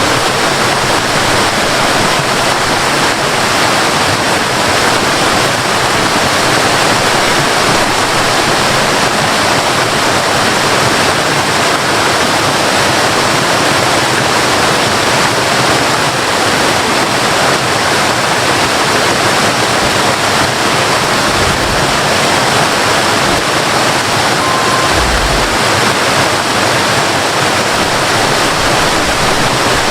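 Waterfall: a loud, steady rush of falling water with no break.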